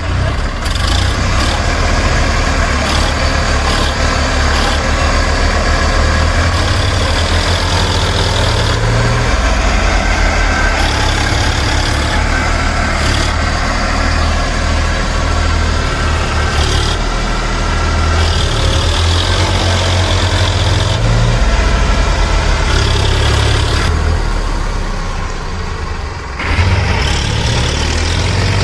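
An engine running steadily, with strong low rumble, easing off briefly near the end before picking up again.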